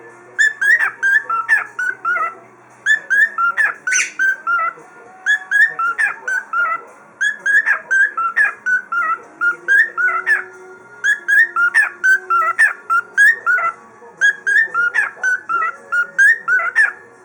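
A male cockatiel singing: repeated phrases of short, clear whistled notes, one phrase after another with brief pauses between them. A single sharp click about four seconds in.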